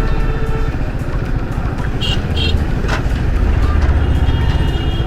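Yamaha R15 V3's single-cylinder engine running steadily at highway speed, with wind and road noise. Two short horn beeps about two seconds in.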